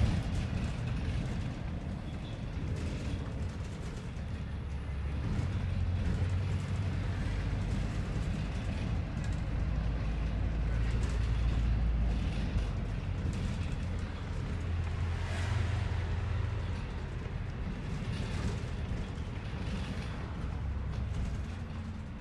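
Low rumble of a city bus's engine and road noise from inside the bus as it drives between stops, swelling and easing as it speeds up and slows.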